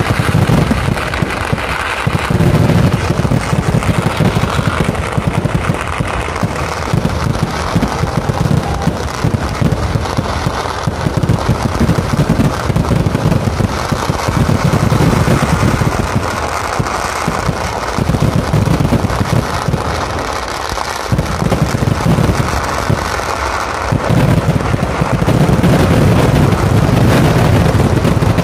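Fireworks going off in a dense barrage: a loud, unbroken run of rapid bangs and crackling. It eases slightly about twenty seconds in, then builds again.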